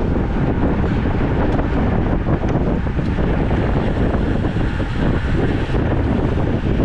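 Wind buffeting the microphone on a moving road bike: a steady, loud low rumble with no breaks.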